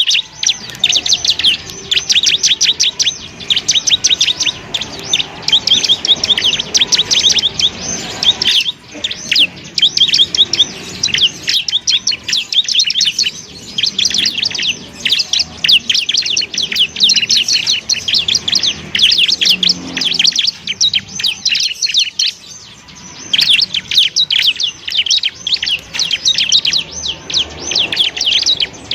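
Bar-winged prinia (ciblek) singing a fast, nearly unbroken chattering trill of short high notes, the 'ngebren' style that keepers use as a masteran tutor song, with a few brief pauses.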